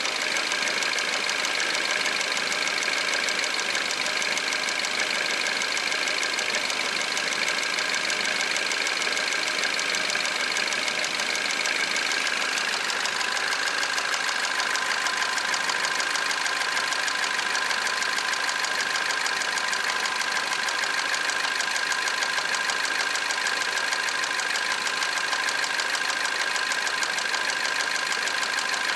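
Peugeot 408 150 hp engine idling cold, with a steady high whine that shifts in pitch about twelve seconds in. The owner asks whether the noise is the timing chain.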